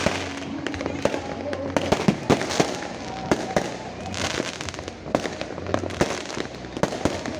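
Fireworks going off from many directions at once: many sharp bangs and pops come at irregular intervals over a continuous background of distant explosions and crackle.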